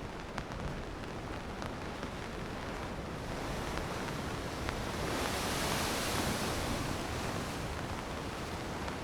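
Sea surf breaking against rocks, a steady wash that swells into one larger wave about halfway through and then eases off, with scattered faint clicks over it.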